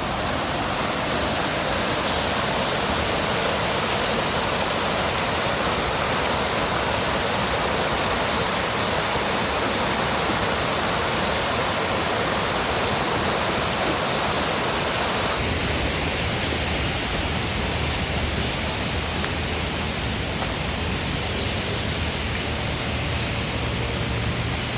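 Steady rushing of a mountain valley stream, an even noise of running water. About fifteen seconds in, its character shifts and a deeper rumble comes in underneath.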